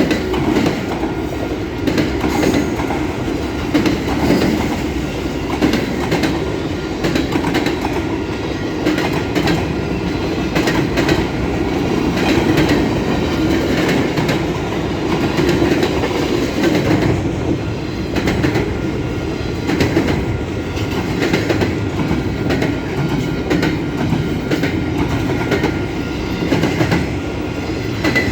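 Long freight train's cars rolling past at speed: a steady rumble of steel wheels on rail with a rapid clickety-clack of wheels over joints.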